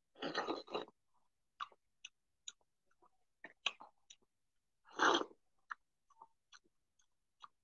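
A person biting into and chewing a juicy ripe prickly pear fruit, with wet mouth clicks and smacks. There are two louder noisy bursts, one near the start and one about five seconds in.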